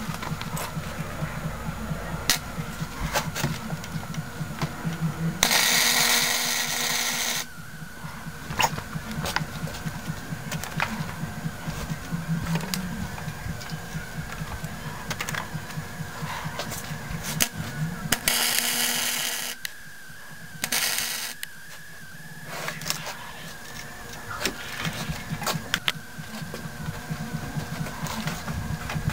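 Welding arc crackling in short bursts: one of about two seconds some five seconds in, another about eighteen seconds in and a brief one soon after, over a steady hum with scattered ticks.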